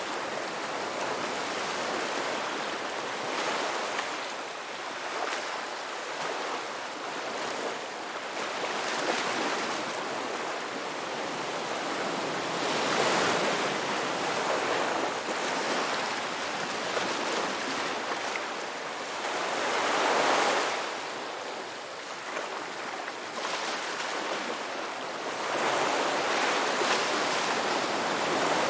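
Ocean waves breaking on a shore, a steady wash of surf with a swell of breaking water every few seconds, one of the loudest about twenty seconds in.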